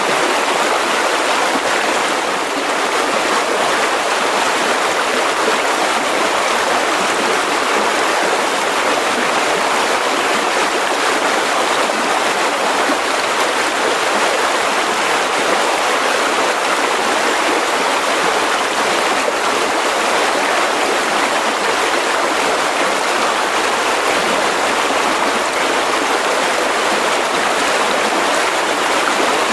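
Mountain river rushing over rocks: a steady, even roar of running water that holds the same level throughout.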